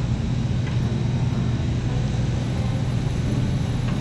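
Steady low mechanical hum of running refrigeration equipment, with no change in level.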